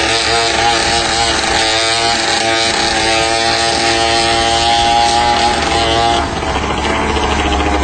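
Motorcycle engine held at high revs, then dropping back a little about six seconds in.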